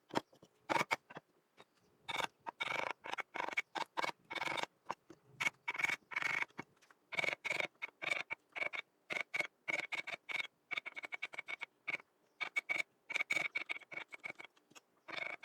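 A quick series of short bursts of scraping, scratchy workshop noise, each cut off abruptly, several carrying a faint steady high whine.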